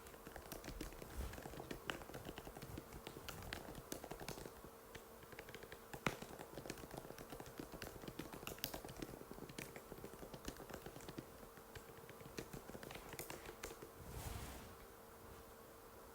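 Typing on an Apple MacBook butterfly keyboard: quick, irregular light key clicks that stop about 14 seconds in, over a faint steady hum.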